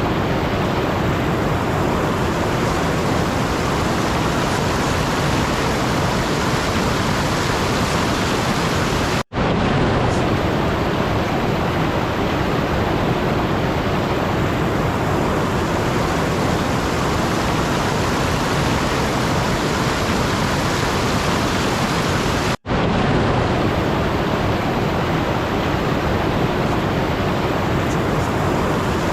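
Steady, even rushing noise with no distinct events, cutting out completely for a split second twice, about nine seconds in and again about twenty-two seconds in.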